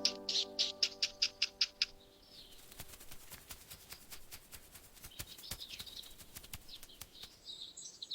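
Canaries chirping: a quick even run of short high chirps, about five a second, that stops about two seconds in, over the fading end of soft music. After that, faint scattered ticks and a few soft chirps.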